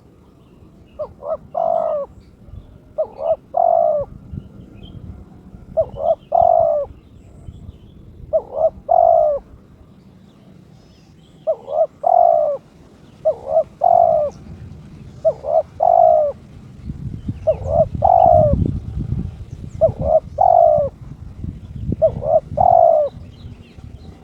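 Spotted dove (terkukur) cooing: a phrase of two or three short notes run into a longer coo, repeated about ten times at roughly two-second intervals. It is the call of a bird in breeding condition, challenging a rival as the keeper has it.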